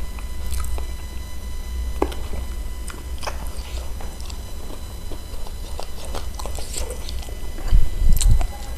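Close-up eating sounds of chewing and biting spicy chicken feet: irregular wet clicks, crackles and smacks over a steady low hum. Two louder low bumps come near the end.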